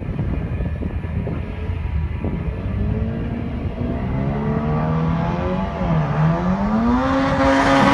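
Drag car accelerating hard down the strip: rough engine noise, then from about three seconds in the engine note climbs in pitch, drops sharply about six seconds in at a gear change, and climbs again, growing loudest near the end.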